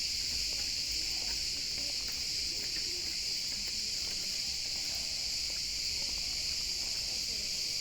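A steady, unbroken, high-pitched chorus of insects chirring in a pine forest.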